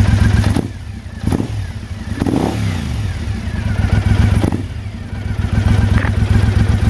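A 2012 Triumph Speedmaster's 865cc parallel twin, with its 270-degree firing interval, idling through British Customs Bomber exhaust pipes. There are a few sharp knocks, and the engine sound drops in level about a second in and again near five seconds.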